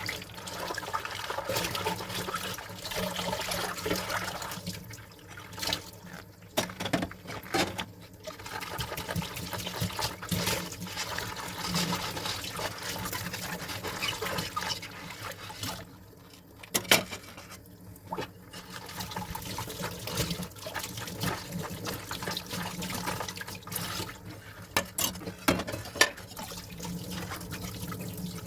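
Dishes being washed by hand under running water: water splashing and running, with many small clinks and knocks of dishes against each other and the sink.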